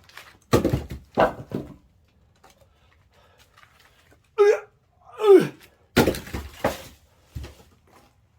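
Splitting axe striking firewood rounds: sharp impacts with the wood cracking and pieces knocking, in two groups of about three blows each. Between the groups comes a man's short shout of falling pitch, the kind of kiai he gives with a swing.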